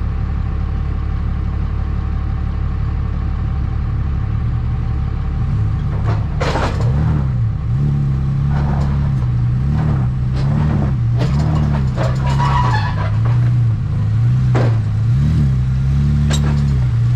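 Car engine running, its pitch rising and falling again and again in short throttle pulls from about five seconds in, with several clunks.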